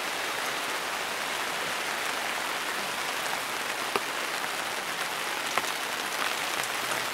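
Steady rain falling, an even hiss of drops with a few sharper single drop ticks.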